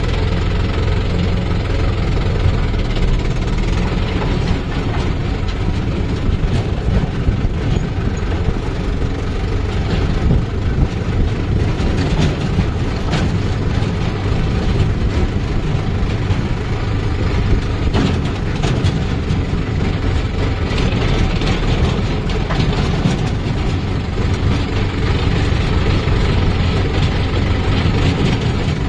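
A tractor's diesel engine running steadily under work, with occasional short knocks over the engine sound.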